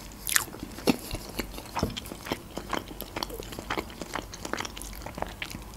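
Mouth sounds of chewing a bite of a Georgian khinkali dumpling: many short, irregular clicks and smacks.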